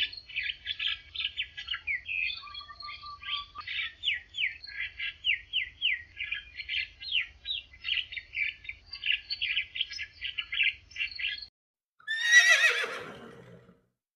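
Small birds chirping in quick, high, sliding notes, several a second, for about eleven seconds. A horse whinnies loudly about twelve seconds in, a single falling call that trails away.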